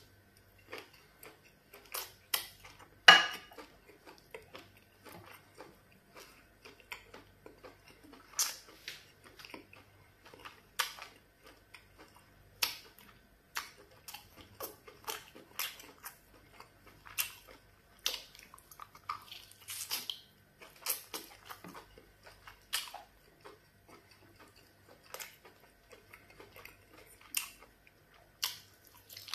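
Close-up chewing and wet mouth smacks of a person eating a soup-soaked piece of meat by hand: many short, irregular clicks and smacks, one much louder about three seconds in.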